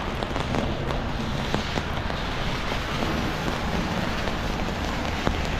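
Rain falling on an umbrella's fabric canopy just overhead: a steady hiss dotted with many small ticks of drops striking the fabric.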